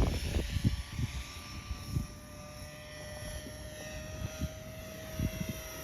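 Electric RC helicopter (Trex 450 mechanics in an EC145 scale body) hovering, its motor and rotors giving a steady whine that rises slowly in pitch. Wind gusts buffet the microphone, heaviest at the start and again near the end.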